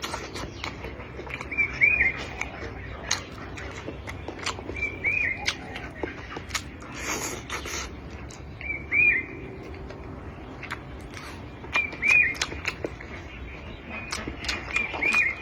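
A bird repeating a short chirp every few seconds, over scattered sharp clicks and smacks of eating.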